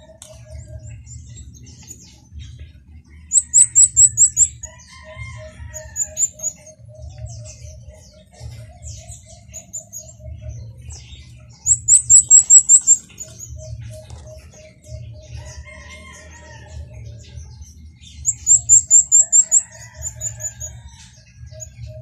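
Birds calling: three bursts of loud, rapid high chirps, each about a second long, over a softer steady run of short low peeps at about five a second.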